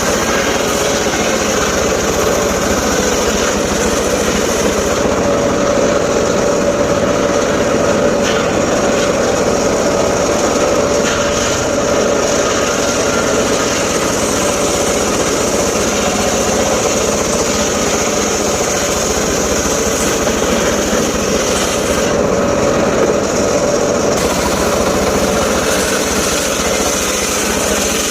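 Small engine of a power saw running steadily at high speed, with no clear change in pitch.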